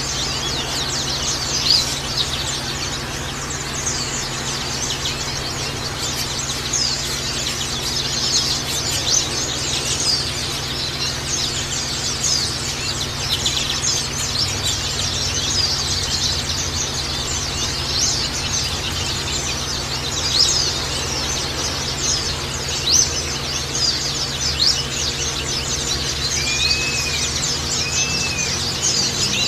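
A chorus of white-eyes (pleci) twittering continuously: many rapid, high, overlapping chirps, with a few slower arched whistles near the end. A faint steady low hum runs underneath.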